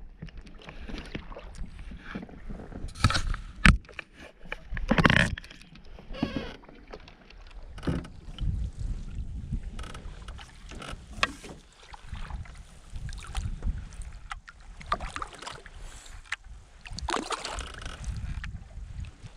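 Canoe being paddled: paddle strokes and water splashing against the hull, with a few sharp knocks, the loudest about four seconds in.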